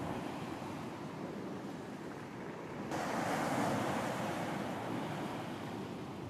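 Ocean surf on a beach: a steady wash of waves, with a wave breaking and surging louder about three seconds in before easing off.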